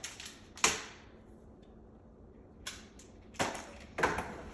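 Four sharp knocks or clacks: the first, about half a second in, is the loudest, and three weaker ones come near the end.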